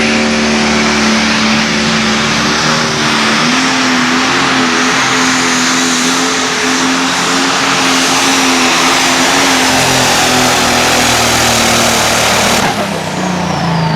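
Light pro stock pulling tractor's turbocharged diesel engine running flat out under load down the track, a steady pitched engine note over a high turbo whine. About 13 seconds in the throttle comes off suddenly and the whine falls away, the end of the pull.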